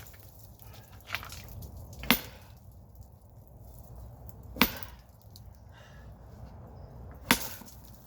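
Sledgehammer striking a rock: three hard blows about two and a half seconds apart, with a lighter knock about a second in.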